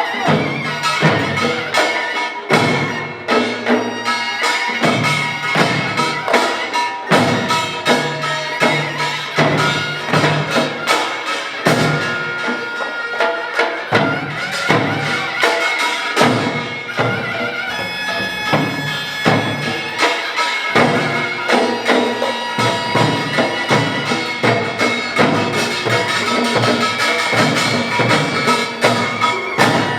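Korean pungmul ensemble playing at full pace: rapid, dense strikes of drums and small gongs, with a shrill taepyeongso shawm holding a melody over them.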